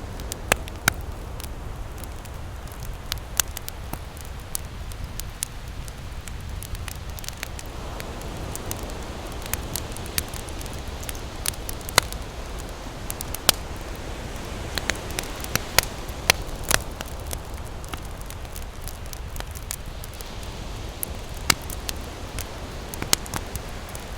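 Wood campfire crackling, with sharp irregular pops several times a second, over a steady low wash of ocean waves that swells now and then.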